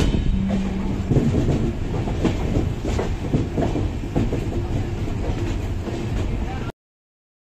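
Passenger train running, heard from aboard: a steady rumble with irregular clicks of the wheels over rail joints and points. The sound cuts off abruptly near the end.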